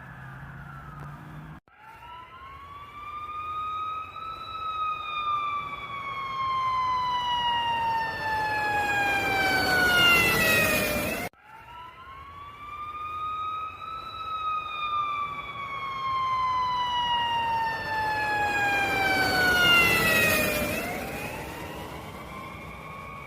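Emergency vehicle siren wailing in two long cycles. Each cycle rises in pitch for a couple of seconds and then falls slowly over several seconds, getting louder as it falls. The sound breaks off abruptly about eleven seconds in and starts again.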